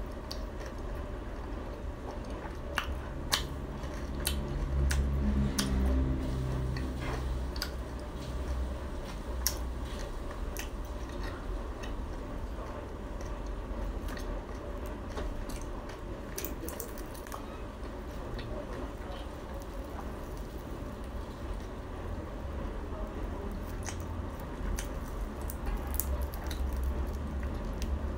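Close-miked chewing of crispy fried Khmer cakes, with scattered small crunches and wet mouth clicks over a steady low hum.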